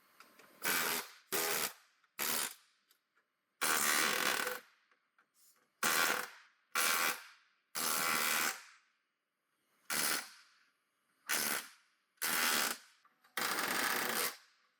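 A power tool run in about eleven short bursts, each a fraction of a second to about a second long, with brief pauses between them.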